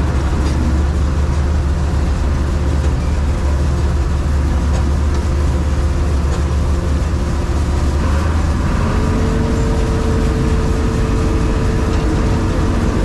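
John Deere 4400 combine running with its unloading auger emptying the grain tank: a loud, steady machine drone. About nine seconds in, a steady whine sets in over the drone.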